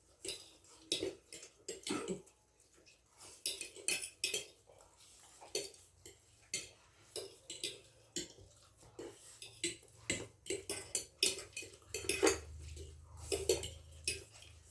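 Forks and spoons clinking and scraping against plates in quick, irregular taps as people eat chowmein fast against a timer.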